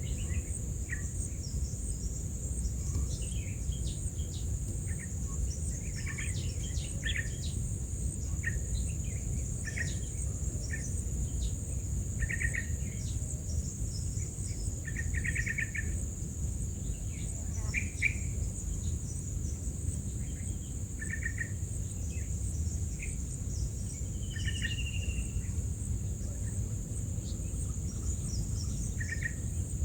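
Insects droning steadily at a high pitch, with short bird chirps scattered throughout and a brief falling whistle late on, over a low steady rumble.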